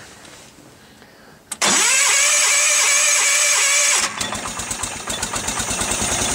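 Ariens garden-tractor loader cold-started at about 24–25 °F. A click, then the starter cranks it for about two and a half seconds. The engine catches about four seconds in and runs with a fast, even beat that grows louder.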